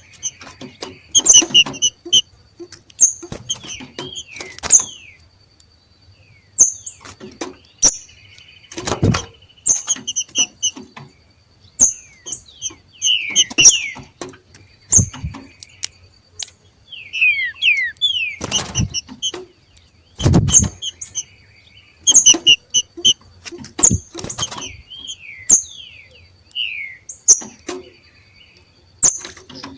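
Two green-winged saltators (trinca-ferro) giving their macheado: short, sharp chips and squeaky chattering notes mixed with quick down-sliding whistles, repeated irregularly. A few low thumps sound among the calls.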